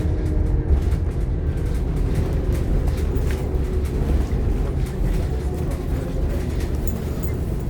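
Interior noise of a Scania K230UB OmniLink bus: a steady low diesel engine rumble with scattered light clicks and rattles from the bodywork and fittings.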